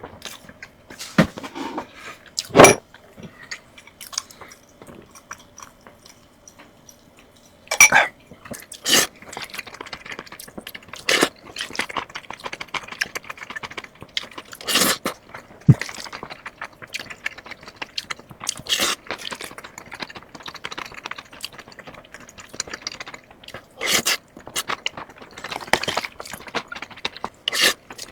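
A person eating crunchy food close to the microphone: irregular crisp bites and crunching chews, some in quick clusters, with quiet gaps between.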